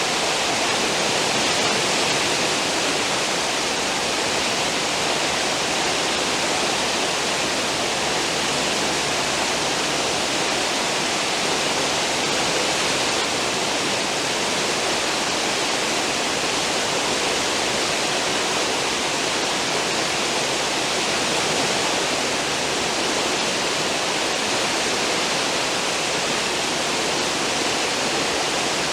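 Cruise ship's stern wake: churned seawater rushing and foaming in a steady, unbroken hiss.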